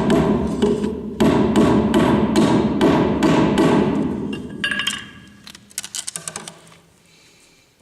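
Hammer driving nails, a fast series of ringing strikes about four a second that dies away about four seconds in, followed by a short run of lighter quick taps near six seconds.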